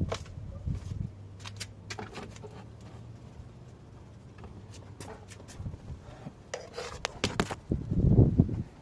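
Scattered metallic clicks and knocks of hand tools and parts being handled while working on a car's starter motor, with a louder low rumble about eight seconds in.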